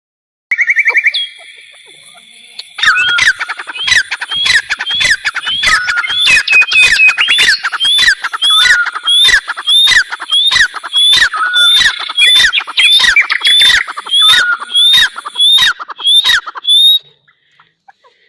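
A bird calling loudly: a short trill near the start, then a long fast run of sharp, upward-slurred repeated notes, about three a second, that stops suddenly near the end.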